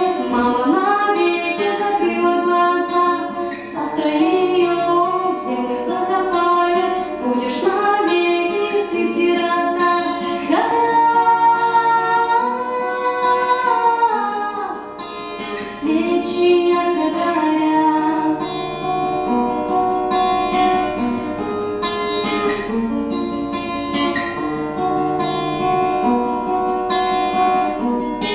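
A woman singing to a plucked acoustic guitar.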